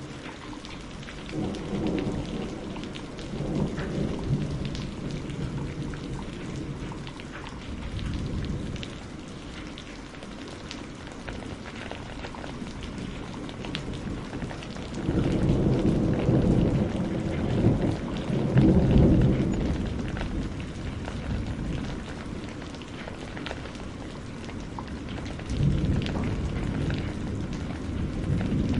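Steady rain pattering on surfaces, with low rolling rumbles of thunder swelling over it a few times. The loudest roll comes about halfway through, and another begins near the end.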